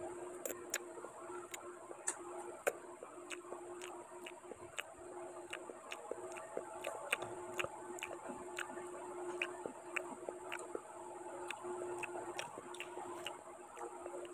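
Close-up eating sounds: wet chewing and mouth smacks while eating rice and curry by hand, with many sharp little clicks, several a second, and fingers squishing rice on a steel plate, over a steady low hum.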